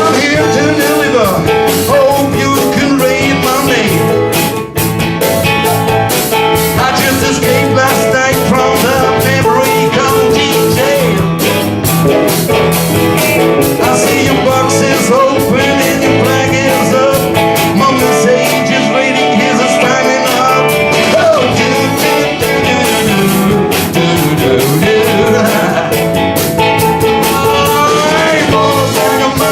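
Live band playing a blues-rock song, with guitar and singing.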